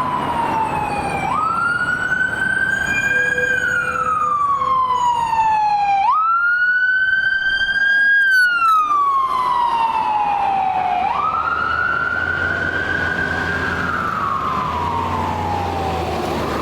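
Emergency vehicle siren in wail mode: the pitch jumps up, holds briefly, then falls slowly, repeating about every five seconds.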